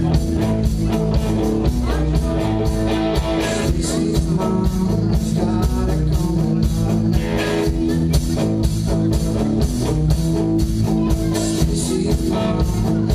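A live rock band playing, guitar over a steady, even drum beat.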